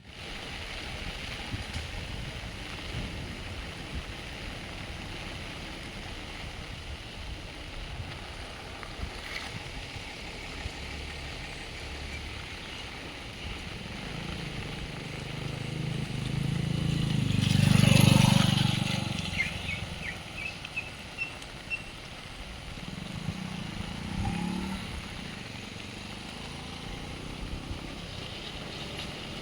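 Steady rain falling, with a motor vehicle passing about halfway through: it grows louder to a peak, then fades away.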